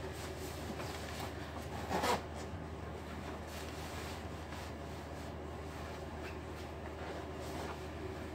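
Rubbing and scraping of laptop parts being handled during a hinge repair, with one louder scrape about two seconds in, over a steady low hum.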